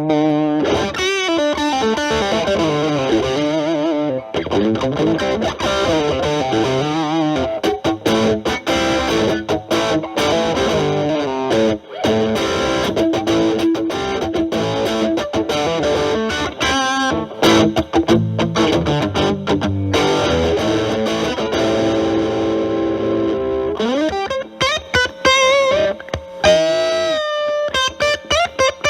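Stratocaster with single-coil alnico pickups played through a Boss DS-1 distortion set to a low gain, boosted by an Ibanez TS9 Tube Screamer into a Marshall Valvestate amp: improvised blues lead lines in a lightly overdriven tone. About 24 seconds in a note slides up, followed by wide vibrato on held notes.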